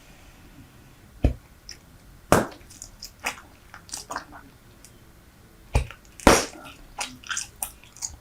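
Close-miked chewing of Super Bubble bubble gum: wet mouth clicks and smacks, with four louder sharp snaps spread through.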